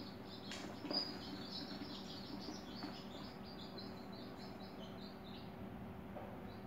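Birds chirping steadily in many short, high chirps, over a steady low hum. A short knock sounds about a second in.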